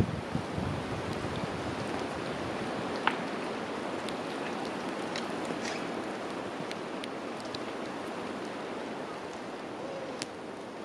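Storm wind rushing steadily through forest trees in a blizzard, with a brief gust on the microphone at the start and a few faint clicks.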